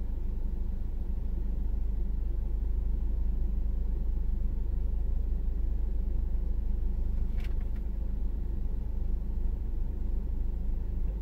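Steady low rumble of a car engine idling, heard from inside the car's cabin, with a pair of faint clicks a little past halfway.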